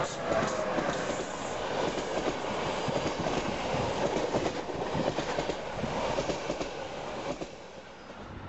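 Locomotive-hauled passenger train passing close at speed. As the locomotive goes by at the start, its tone falls in pitch. Then the coaches pass with a steady rumble and the clickety-clack of wheels over the rail joints, which drops away near the end.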